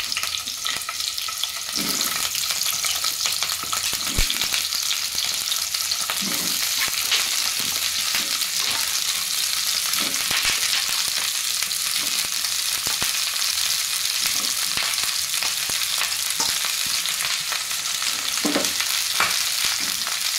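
Cauliflower florets frying in hot oil in a kadai: a steady loud sizzle that starts as the first pieces go in, with a few soft thumps as more florets are dropped into the pan.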